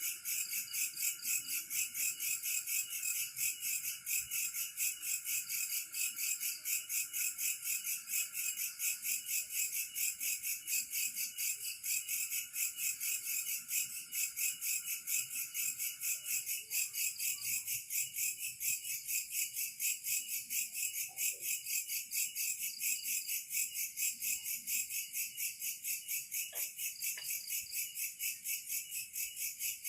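Insects chirping in a steady chorus of rapid, even pulses. A lower, steadier trill underneath stops a little over halfway through.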